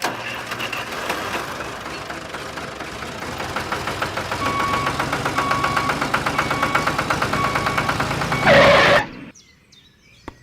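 An engine-like motor running with a rapid, even knocking that speeds up slightly. From the middle on, a short repeating beep sounds about once a second. A louder burst comes near the end before it all cuts off suddenly.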